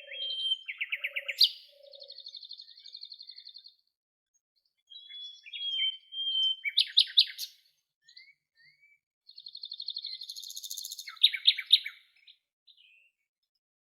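Songbird singing in three phrases separated by pauses of a second or two, each made of a clear whistle followed by fast trills and buzzy rapid notes. A few low, evenly spaced notes sound under the first phrase.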